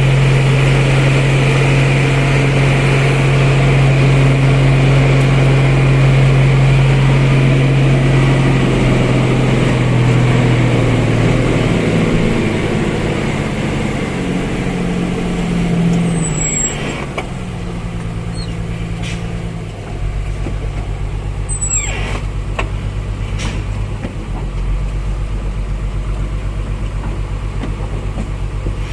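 A truck engine runs hard under load on a steep climb, then drops to a lower note partway through. A couple of short high squeaks and a few sharp clicks come near the middle.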